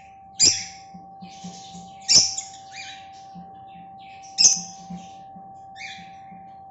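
Lovebird making three loud, short, high-pitched screeching calls about two seconds apart, with softer chirps between them.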